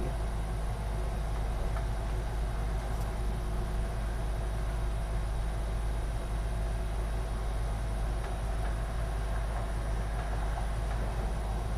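A steady low hum fills the background, with a few faint clicks of computer parts being handled and fitted.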